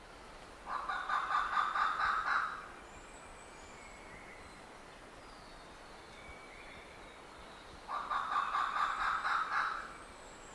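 Turkey gobbling twice, each gobble a rapid rattling call of about two seconds, several seconds apart. Faint high bird whistles between.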